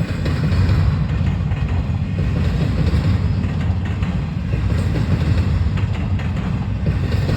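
Freight train rolling past: a steady low rumble with irregular clicks of wheels over the rails.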